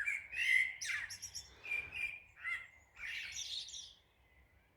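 Birds singing before dawn: a run of short chirps and whistled notes, then a harsher, scratchy call about three seconds in, dying away near the end.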